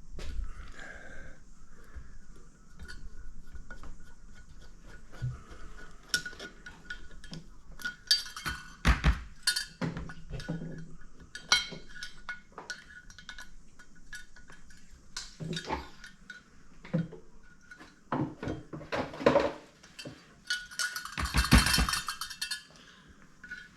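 Small metal carburettor parts and hand tools clinking, tapping and knocking against each other and a bench, irregularly, as a Stromberg carburettor is taken apart. Near the end comes a denser clatter lasting about a second and a half.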